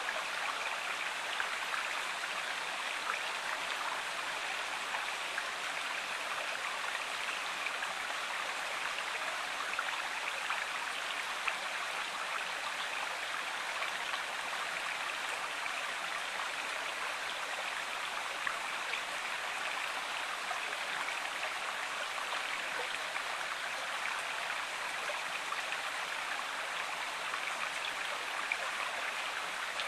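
River water running steadily, an even rushing babble with small splashes scattered through it.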